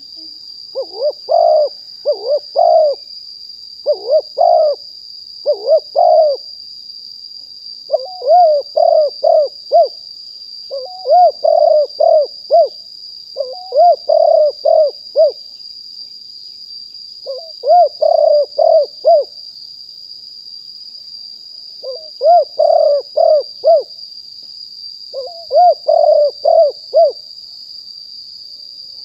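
Spotted dove cooing: repeated phrases of several quick, rounded coo notes, one phrase every second or two, with short pauses between runs. A steady high-pitched whine runs underneath.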